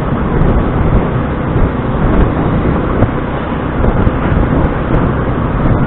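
Motor scooter riding through town traffic: its engine and the road and traffic noise of the ride make a steady, dense noise.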